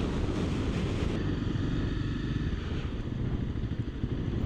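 Honda CRF250L single-cylinder motorcycle engine running steadily while riding along the highway, with a rushing haze of wind noise over it.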